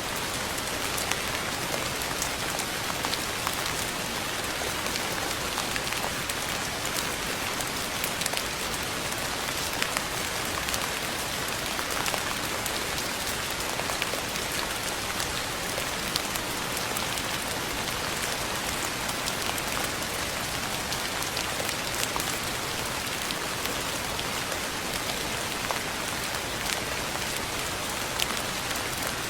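Steady rain falling and pattering on a surface, an even hiss dotted with the sharp ticks of individual drops.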